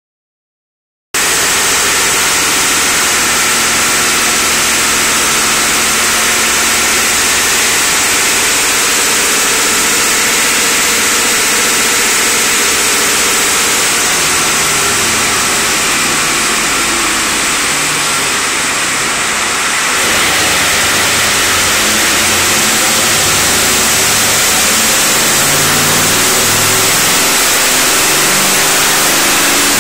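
Ford 7.3 L IDI V8 diesel with a Banks Sidewinder turbocharger running loud and steady on a chassis dyno during a dyno pull, through a 4-inch exhaust. Its note shifts from about halfway through, dips briefly and then comes back up.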